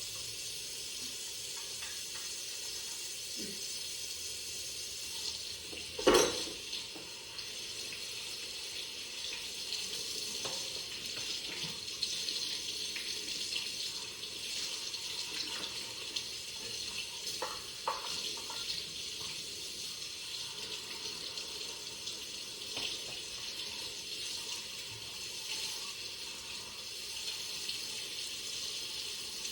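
Tap water running into a sink during washing-up, sloshing and splashing steadily, with one loud knock about six seconds in and a few lighter clinks later.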